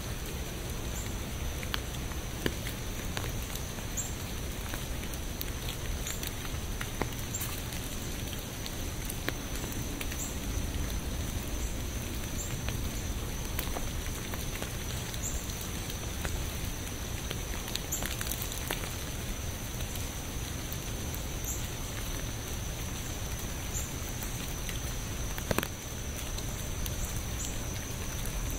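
Steady rain falling, an even hiss with scattered individual drops ticking on a surface, one sharper tap near the end. A faint steady high tone runs beneath it.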